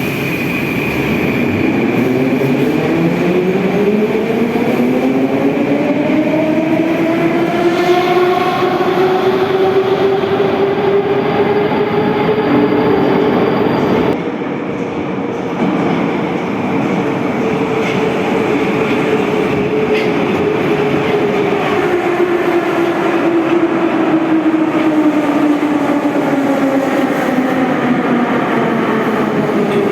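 Metro train's traction motors whining, rising in pitch as the train gathers speed, holding steady at speed, then falling near the end as it slows, over the rumble of wheels on the rails.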